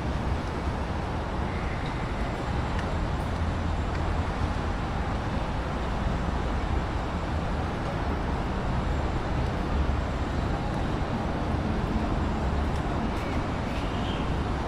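Steady outdoor background noise with a low rumble underneath and no distinct events.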